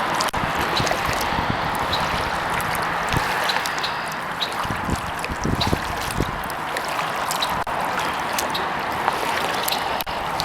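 Kayak paddling: water dripping and trickling off the paddle in small scattered ticks, with a few low knocks of the strokes about halfway through, over a steady hiss.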